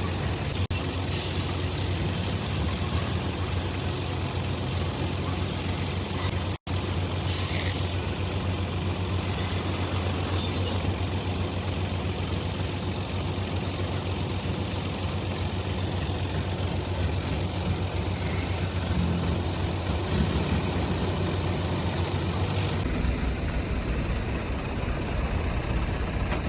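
Heavy truck's diesel engine running steadily, with two short bursts of air-brake hiss, about a second in and again around seven seconds in.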